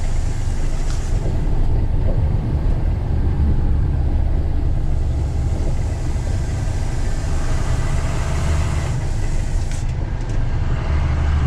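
Steady low engine and road rumble heard from inside a moving vehicle's cab.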